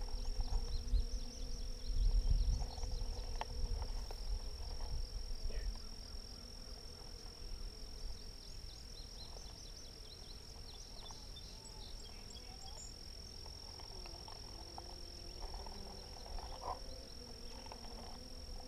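Honeybees buzzing around an open hive, a low steady hum, over a steady high-pitched whine. Low rumbling of wind or handling on the microphone during the first few seconds.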